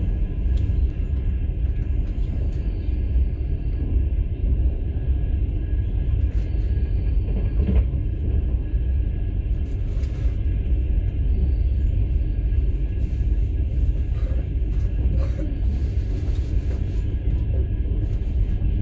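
Steady low rumble of a passenger train running, heard from inside a platskart sleeper carriage, with a few faint clicks and knocks scattered through it.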